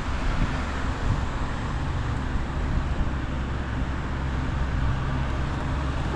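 Steady running noise of a motor vehicle: a low engine hum under an even road rumble.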